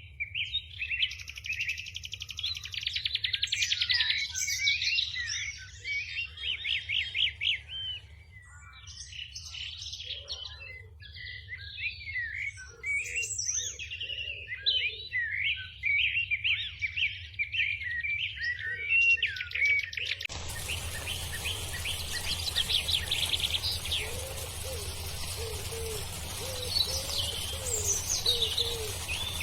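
Songbirds singing, with rapid trills and varied chirping, whistled phrases, and a lower, softer repeated call in the middle and near the end. About 20 seconds in, a steady background hiss comes in abruptly under the song.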